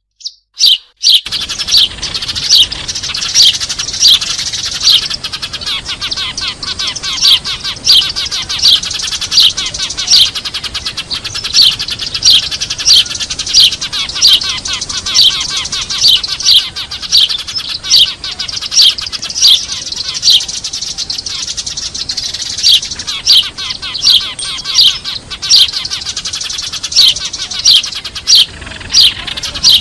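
Eurasian tree sparrows chirping noisily: a dense, continuous chatter of short, sharp chirps, the louder ones coming about twice a second, with a brief break about a second in.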